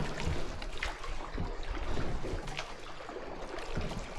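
Water splashing and trickling around a small rowed boat, with scattered short knocks and splashes.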